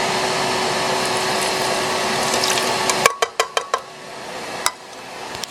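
A small electric appliance motor whirring steadily, with a faint steady hum, then switching off about three seconds in. A quick run of sharp clicks follows, and two more single clicks come near the end.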